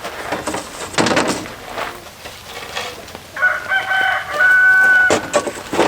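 A rooster crowing once, a long pitched call starting about three seconds in, with shorter scattered farmyard sounds around it.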